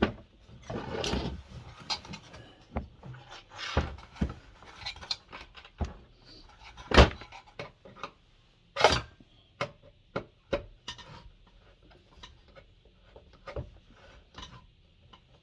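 Hands and tools working at a diesel heater's cover, trying to pry it off: irregular clicks, knocks and a brief scrape near the start, with two sharper knocks in the middle.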